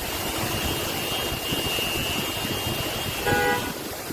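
Steady rushing street noise with a thin high tone over it, then a short car horn toot about three seconds in.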